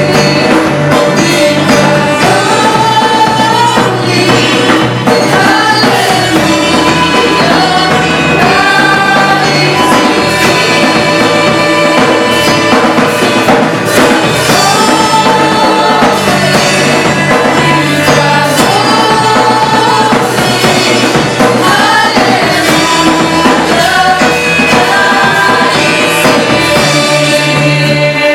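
A worship band playing a song: singing over drums, bass and other instruments, loud and steady throughout.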